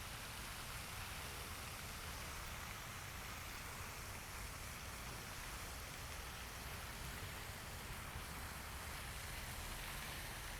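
Steady, faint outdoor background noise: an even hiss over a low rumble, with no distinct events.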